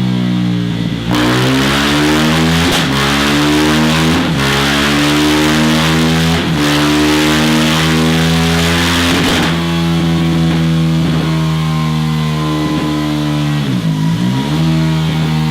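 KTM Duke 390 single-cylinder engine running through a Scorpion Serket Taper exhaust, its revs rising and falling. The revs dip and pick up again near the end.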